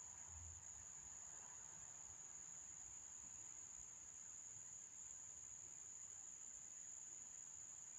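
Faint, steady, high-pitched trill of crickets, unbroken throughout.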